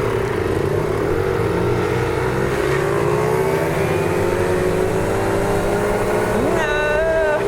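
Small motorbike engine pulling hard under full throttle in a drag-race launch, its pitch climbing slowly and steadily as it gathers speed.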